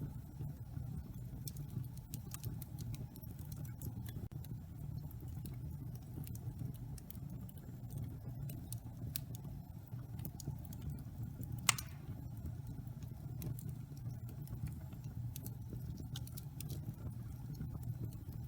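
Wood fire burning in a fireplace: a steady low rumble of the flames with scattered light crackles, and one louder pop about twelve seconds in.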